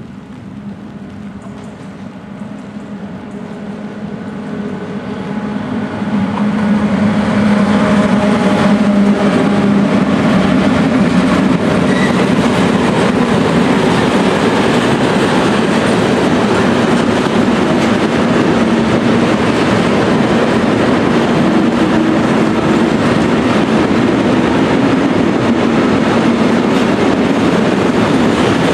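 A freight train hauled by a V43-class electric locomotive passes at speed. A steady hum grows louder over the first six seconds as it approaches. Then comes the continuous rolling noise of a long string of loaded open wagons running over the rails.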